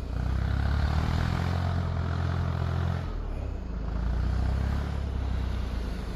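Vehicle engine running under load, pulling steadily, easing off briefly about three seconds in, then pulling again.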